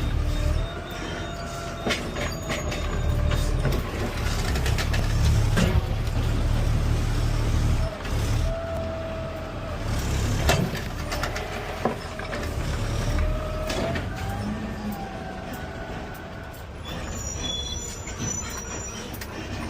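Peterbilt 520 CNG automated side-loader garbage truck running, heard from the cab: a heavy low engine rumble with a whine that rises and falls several times, and scattered clanks and knocks.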